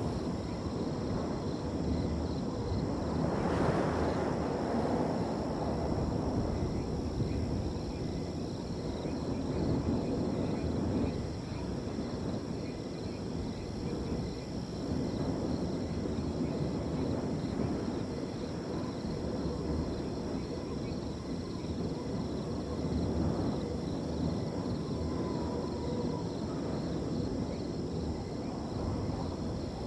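Wind blowing in swelling and easing gusts, with crickets trilling steadily and high above it.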